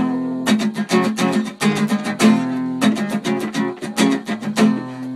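Acoustic guitar strummed in a quick, steady rhythm, with chords ringing between the strokes.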